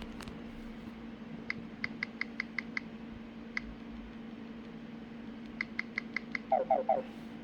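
Short electronic key-tap beeps from a GPS navigator's touchscreen keyboard as a name is typed in: a quick run of seven, a single one, then five more. Near the end come three louder falling chirps. A steady low hum runs underneath.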